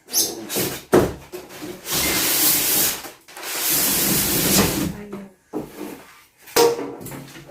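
Packaging of a new washing machine being handled and pulled at: two long stretches of rustling and scraping, with a few knocks in between and near the end.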